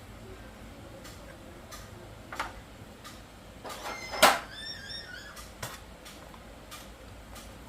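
Scattered clicks and knocks of metal parts and tools being handled, with one loud sharp knock about four seconds in followed by a brief ringing tone.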